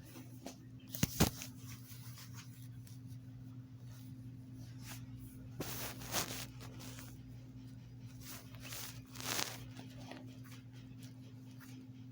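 A steady low electrical hum with a few short rustling and knocking handling noises; the loudest is a pair of sharp knocks about a second in.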